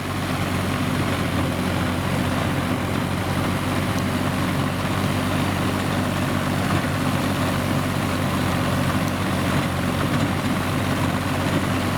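Kubota M5000 tractor's diesel engine running steadily at an even speed.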